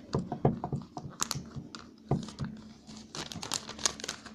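A sheet of paper being folded and creased by hand into a paper airplane: irregular crinkles and short crisp ticks as the folds are pressed down.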